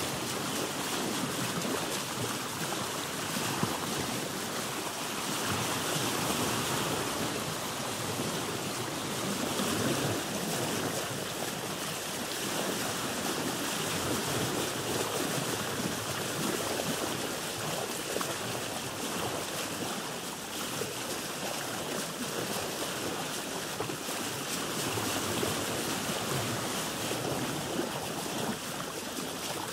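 Sea water washing and lapping against a boat, a steady rushing wash that swells and eases every few seconds.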